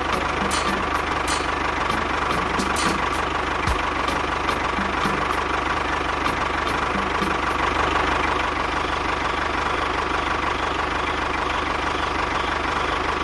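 Engine running steadily with a pulsing low rumble and a steady high whine over it, with a few light clicks in the first few seconds.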